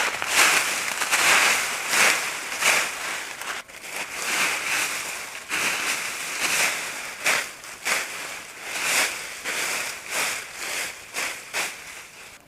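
Wood campfire burning with dense, irregular crackling and popping, easing off a little toward the end.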